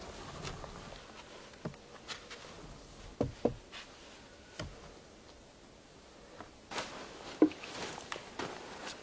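Scattered knocks and taps of objects being handled: two knocks close together about three seconds in, and a cluster of taps near the end with one louder knock among them.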